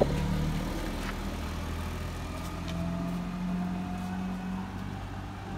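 Car engine running with a steady low hum, and a faint whine that rises slowly through the second half.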